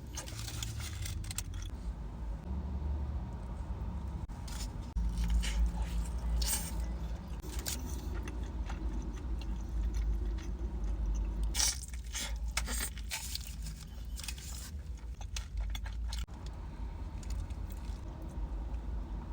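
Close-up chewing and biting of a burrito, with scattered crunches and crackles through the bites.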